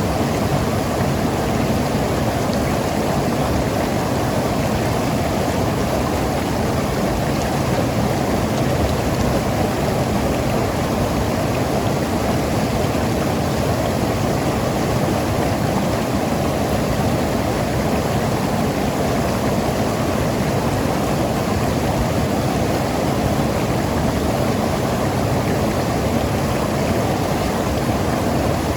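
Mountain river rushing and gurgling over rocks, a steady full sound of running water.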